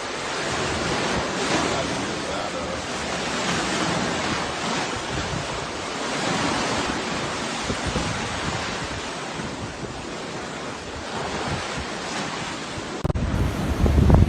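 Storm wind and rough, surging water making a steady rushing noise. About thirteen seconds in it switches to louder, deep buffeting of wind on the microphone.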